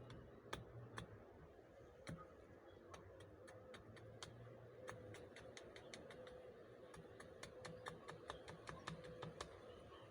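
Small fire of split, wet kindling crackling faintly, with irregular sharp pops, several a second.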